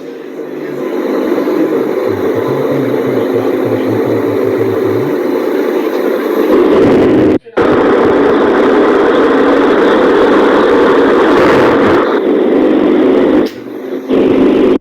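Electric table fan running close up: a steady whir of blade wind over a motor hum, cutting out abruptly for an instant about halfway through.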